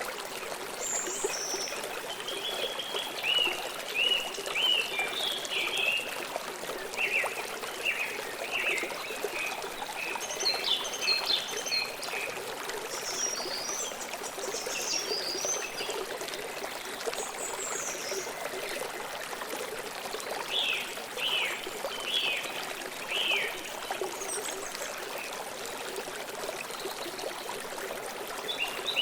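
River water flowing and trickling steadily, with birds chirping over it in short, quick calls that come and go, thinning out after about two-thirds of the way through.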